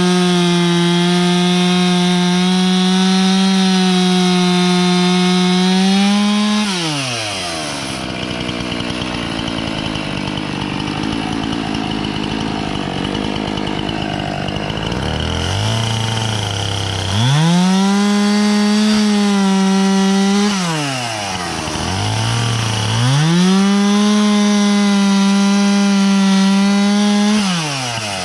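Husqvarna two-stroke chainsaw running at full throttle through dry oak, with a brief rise in pitch as it breaks through, then dropping to idle for several seconds. It is then throttled up again for two more spells at high revs, falling back between them.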